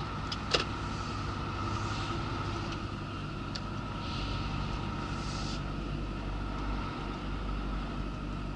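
Mercedes lorry's diesel engine running steadily at low speed, heard from inside the cab, with one sharp click about half a second in.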